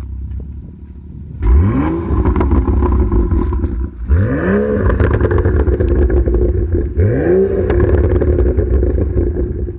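BMW M235i's turbocharged straight-six engine, breathing through an OEM M2 quad-tip exhaust, idling and then revved three times. Each rev climbs quickly and is held for a couple of seconds.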